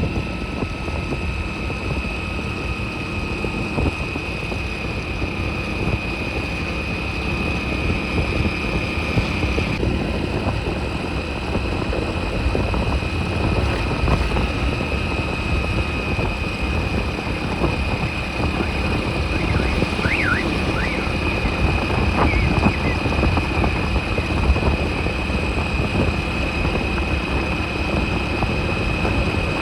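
Motorbike riding along: a steady low rumble of engine, road and wind noise, with a thin steady high whine over it that shifts slightly about ten seconds in.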